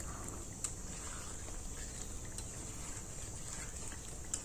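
Chicken masala frying in oil in a pot while a metal spatula stirs it, with a couple of light clicks of the spatula against the pot. The oil has separated from the masala, the sign that it is nearly cooked.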